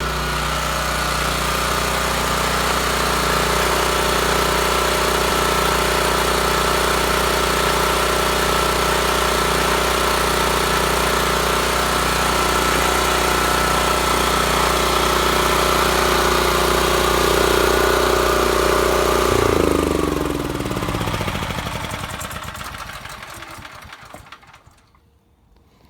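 Honda portable generator engine running steadily on a Chinese-made replacement carburetor, which got it running again. About three quarters of the way through it is shut off, and its pitch falls as it coasts down to a stop.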